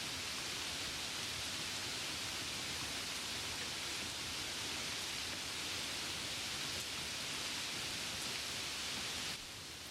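Steady rain ambience, an even hiss of falling rain that drops a little in level near the end.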